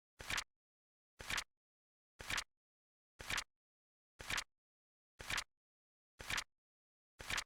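Flip clock timer sound effect: a short, crisp flipping click once a second, each with a softer lead-in just before the main snap, and dead silence between the clicks.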